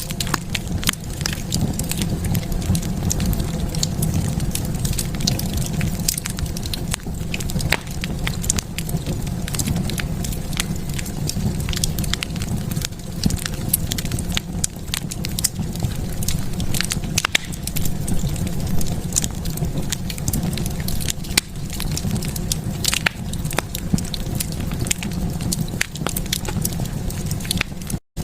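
Wood fire burning in a fireplace, crackling with frequent sharp pops over a steady low rumble of the flames. The sound cuts out for an instant near the end.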